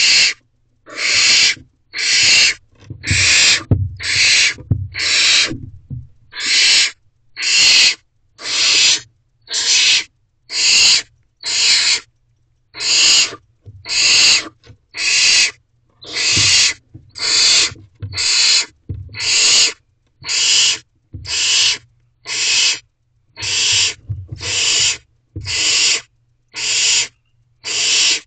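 Barn owlets giving rasping hissing screeches, about one a second over and over, the begging calls of nestlings around a food delivery. A few low bumps sound in the first seconds.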